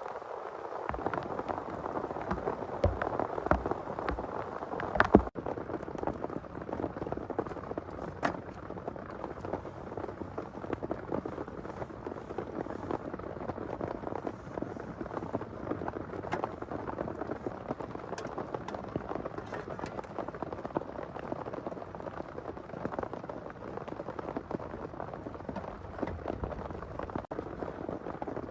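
Heavy rain falling steadily on a surface close by, with many separate drop strikes heard among the downpour. There is one sharper knock about five seconds in.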